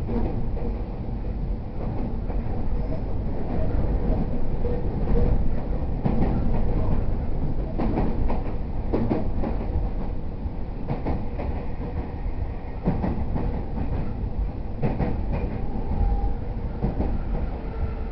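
E231 series 0 electric multiple unit running on the line: a steady rumble with wheels clacking over rail joints now and then. Near the end a faint motor whine falls in pitch.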